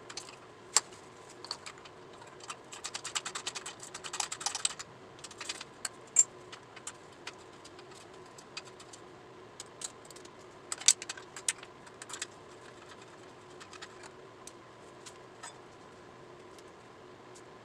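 Hand tools working on the motorcycle's fender bolts: a dense run of quick clicks from about two and a half to five seconds in, and scattered sharp metal clinks, the loudest about six and eleven seconds in.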